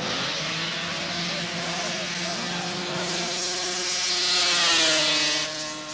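Drag-racing snowmobile's two-stroke engine at full throttle, growing louder as it comes past, its pitch dropping as it goes by near the end.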